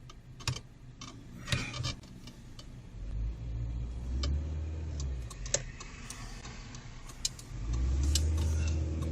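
Vehicle engine running low, heard from inside the cab, growing louder about three seconds in and again near the end, with scattered clicks and knocks.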